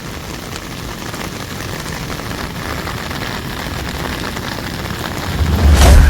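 Heavy rain hissing steadily, slowly growing louder. Near the end a loud, deep boom comes in.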